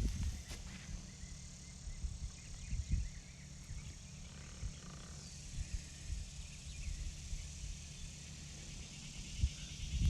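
A microwave oven running with welding rods and a diesel-filled can inside, giving a few sharp pops from sparking over a steady low rumble.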